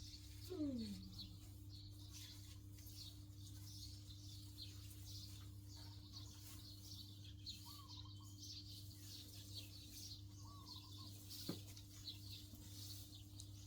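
Faint scattered bird chirps over a steady low hum. A short falling call is heard about half a second in, a click comes near the end, and two brief wavering notes sound in between.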